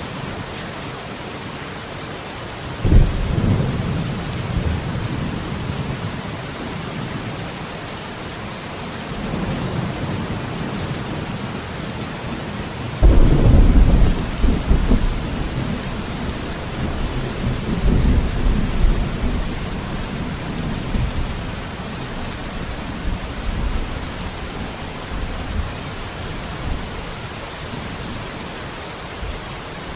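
Steady rain falling, with rolls of thunder rumbling in low surges about three seconds in, about thirteen seconds in (the loudest) and about eighteen seconds in.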